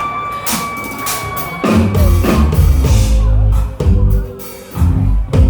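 Live band playing: drum kit strikes over a held note, then the bass and drums come in loud about two seconds in, dropping out for a moment near the four-second mark and coming back.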